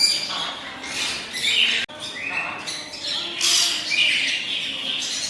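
Caged parrots squawking, a string of harsh, overlapping calls.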